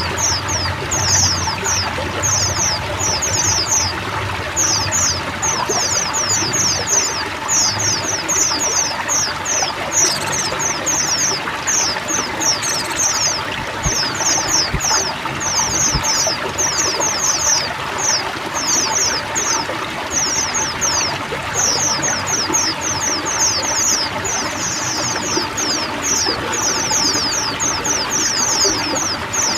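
A flock of white-eyes (pleci) chirping together nonstop in short, high, downward-sweeping calls, over steadily running, trickling water.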